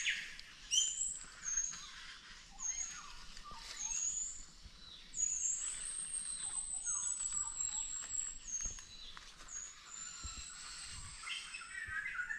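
Several forest birds calling: thin high chirps repeated every half second or so, a long high whistled note through the middle, and shorter lower slurred notes among them.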